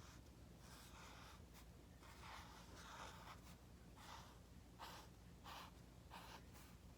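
Faint, short scratchy strokes of writing on card or paper, coming in an irregular run, over a low steady hum.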